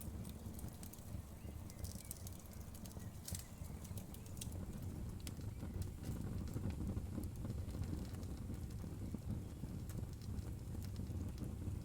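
Wood fire burning in a fireplace: a low, steady rumble of flames with sharp crackles and pops of the burning wood, most frequent in the first few seconds.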